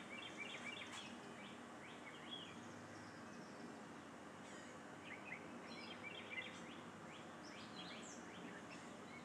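Songbirds chirping, many short quick calls, faint over a steady low background hiss.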